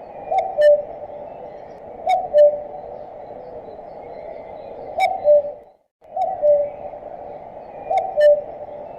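Common cuckoo calling its two-note "cuck-oo", a higher note falling to a lower one, five times at uneven spacing over a steady hiss. The recording cuts out briefly just before the fourth call.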